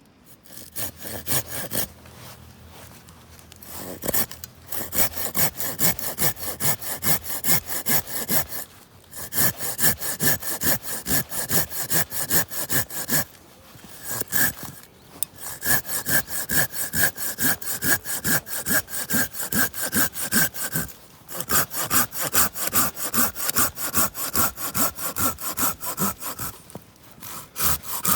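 Hand saw cutting through firewood in quick back-and-forth strokes, with a few short pauses between runs of strokes. A ringing tone in the strokes drops slowly in pitch as the cut goes on.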